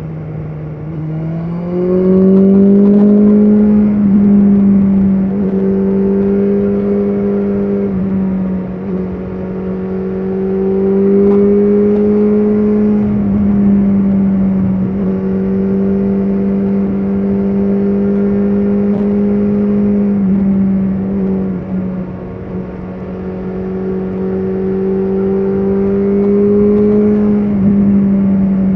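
BMW S1000RR's inline-four engine running under changing throttle, its revs rising and easing off several times, the first rise about two seconds in.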